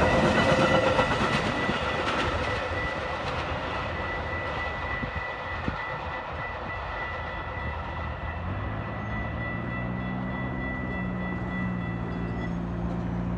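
Diesel train rolling past and slowly fading, a steady high whine sounding over the rumble. About eight and a half seconds in, a diesel engine's low, even drone comes in and holds.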